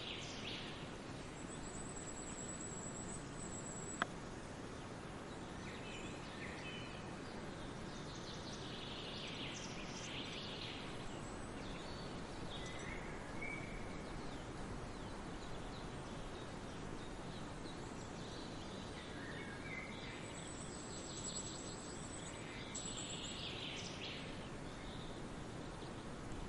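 Wild birds chirping in scattered short bursts over a steady hiss of outdoor background noise, with a thin, high, steady note heard twice. A single sharp click sounds about four seconds in.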